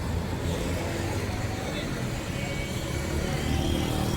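Steady low rumble of a running vehicle, with voices faintly mixed in.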